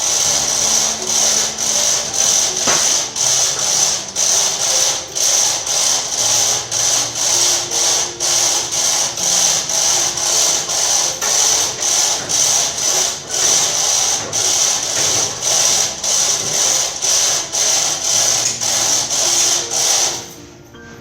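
Mechanical clicking, repeating evenly at a few clicks a second like a ratchet, over a steady high hiss. It briefly drops away near the end.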